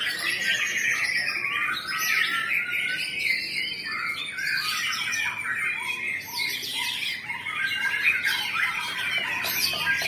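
White-rumped shama (murai batu) singing a continuous run of rapid, varied notes with no pauses.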